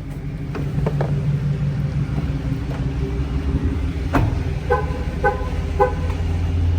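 Dodge Challenger R/T's 5.7-litre Hemi V8 idling steadily. About four seconds in there is a click, followed by three short beeps about half a second apart.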